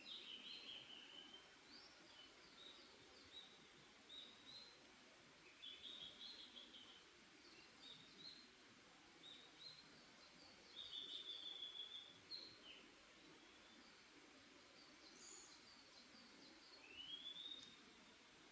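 Faint songbirds chirping and trilling, in short repeated phrases over a soft background hiss, with a rising whistle near the end.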